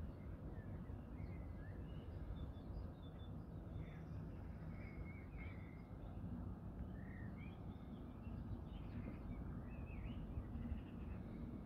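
Small birds chirping and singing in short scattered phrases over a steady low background rumble.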